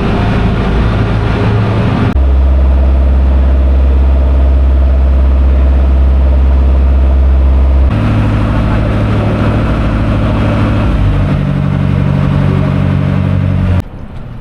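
Ferry's engine running steadily with a deep, loud hum. Its note shifts abruptly about two seconds in and again around eight and eleven seconds, then it cuts off shortly before the end.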